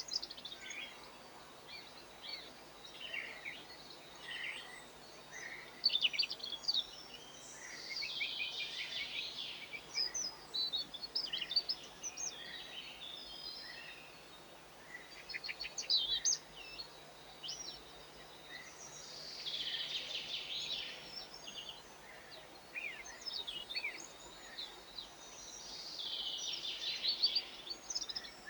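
Garden songbirds chirping and twittering in many short high calls, with three denser bursts of rapid twittering: about a third in, about two-thirds in, and near the end.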